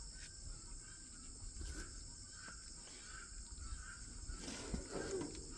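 A steady, faint insect chorus of high trilling, with faint scuffs and knocks of someone moving about near the end.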